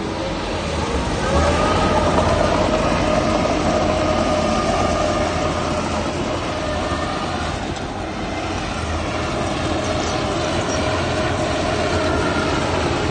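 Heavy diesel earthmoving machinery running steadily, with a drawn-out whining tone that rises about a second in and then holds.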